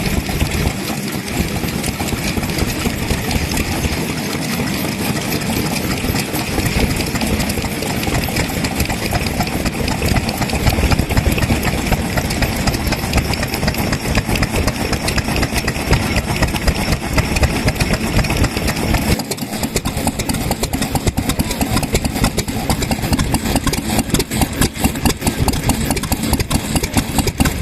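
Vintage stationary kerosene engines running steadily with a rapid pulsing beat. About two-thirds of the way through the sound changes abruptly to a sharper, more distinct rapid beat.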